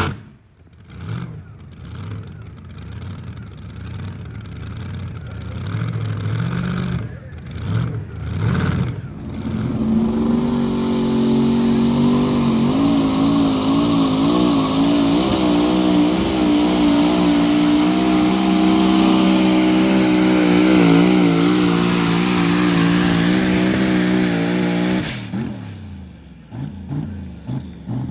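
Pulling truck or tractor engine revving in short blips, then held at high revs under load for about fifteen seconds with a wavering pitch during a pull. Near the end the throttle comes off and the engine falls to a lumpy idle.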